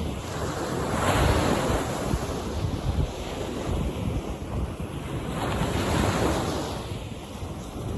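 Ocean surf: waves breaking and washing in, swelling loudest about a second in and again around six seconds.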